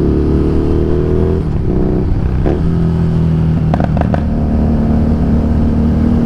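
Harley-Davidson Street Rod 750's liquid-cooled V-twin engine running under way. Its pitch eases down and steps a couple of times in the first few seconds, then holds steady.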